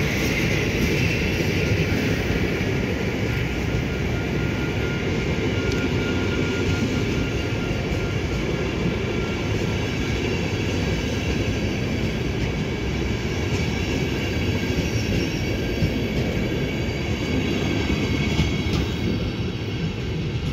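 Passenger coaches rolling slowly out of the station, a steady rumble of wheels on rail with occasional clicks over the rail joints. A faint high wheel squeal comes in about a third of the way in. The sound eases slightly near the end as the last coach passes.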